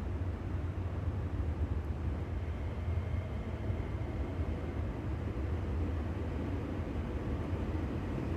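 Steady low rumble of a train running, with a faint thin whine coming in about a third of the way through.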